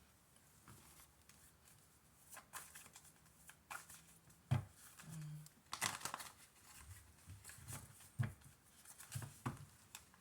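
A deck of reading cards being handled: soft rustles and a scattering of light clicks and taps, with a louder shuffle starting at the very end.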